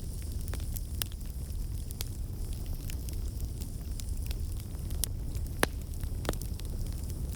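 Wood fire crackling in a fireplace: irregular sharp pops and snaps, one louder pop near the end, over a steady low rumble of the flames.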